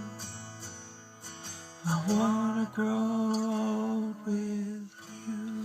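The closing of a sung acoustic-guitar love song: the last guitar chord dies away, then a voice holds three long wordless notes, the first about two seconds long.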